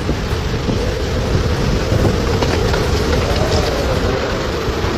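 Loud, steady roar of storm wind with a deep rumble and a wavering hum running through it.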